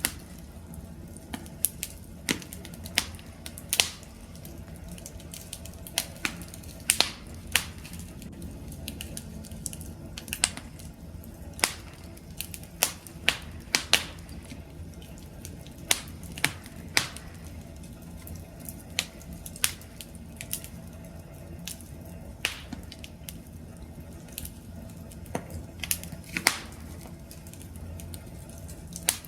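Wood fire crackling: irregular sharp pops and snaps from burning logs over a steady low rumble of flames.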